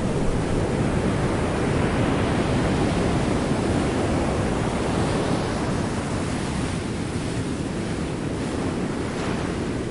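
Ocean heard underwater: a steady, low rushing wash of seawater, easing slightly about halfway through.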